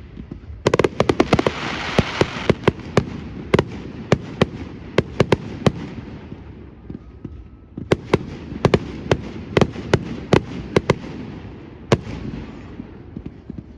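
Fireworks display: a rapid series of sharp bangs from bursting shells. A dense cluster begins just under a second in, then the bangs come more sparsely, with a short lull about halfway and another run of bangs after it.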